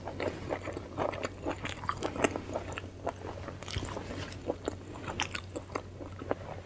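Close-miked chewing of a mouthful of panipuri and momos: wet mouth clicks and smacks with some crunching, irregular and continuous, over a faint steady low hum.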